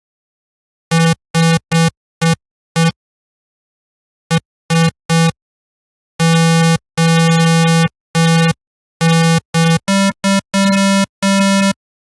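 Image-Line Harmor software synthesizer in FL Studio playing one synth tone as a series of separate notes, each cut off into silence. The first notes are short stabs; from about halfway in the notes are held longer, and the last few sit slightly higher in pitch.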